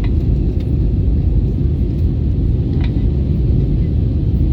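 Steady low rumble of an Airbus A321neo's engines and airflow heard inside the cabin.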